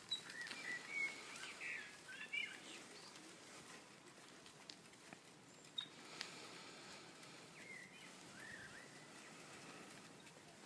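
Faint birdsong: short warbling chirps in the first couple of seconds and again briefly near the end, over a steady outdoor hiss with a few light clicks.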